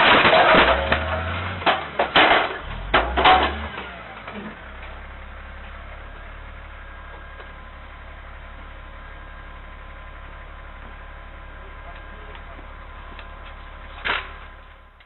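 Vehicle collision heard through a dashcam: loud noise with several crunching impacts in the first few seconds. Then a steady low hum, broken by one sharp knock near the end.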